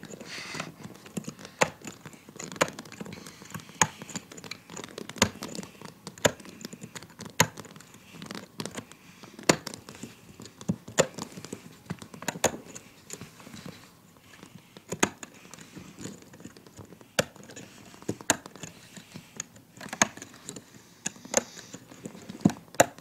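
Irregular sharp clicks and taps, about one or two a second, of a loom hook and rubber bands against the plastic pegs of a rubber-band loom as the bands are worked off the pegs one at a time.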